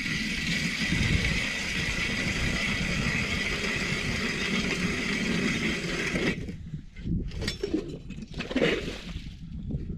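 Power ice auger drilling a hole through lake ice to measure its thickness, running steadily with a high whine and then stopping about six seconds in. A few scrapes and knocks of ice chips and slush follow.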